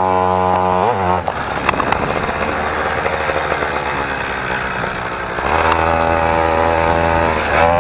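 Motorized BMX bike's small engine running through a homemade little muffler. The pitch is steady for about a second, goes rougher and noisier in the middle, then steadies again and rises as the engine revs near the end.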